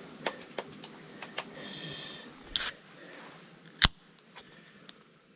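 A run of sharp clicks and knocks from things being handled, the loudest a little under four seconds in, with a short rustling hiss around two seconds.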